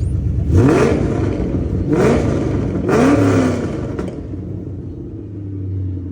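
Ford Crown Victoria's 4.6-litre V8 revved three times in quick succession, each rev rising and dropping back, then settling to a steady idle while it warms up.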